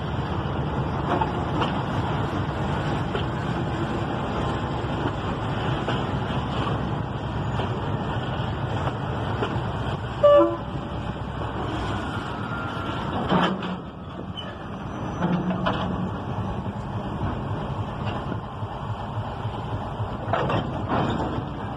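Freight train wagons rolling past, a steady rumble of wheels on rail with occasional clanks. A brief horn toot about ten seconds in.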